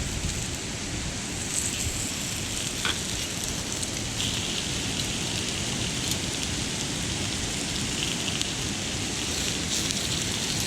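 Wood campfire crackling: a steady hiss with a few small pops.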